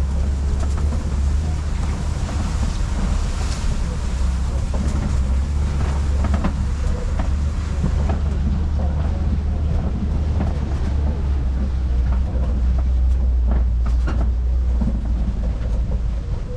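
Safari ride truck driving along its track: a steady low rumble of engine and road noise, with scattered knocks and rattles from the vehicle.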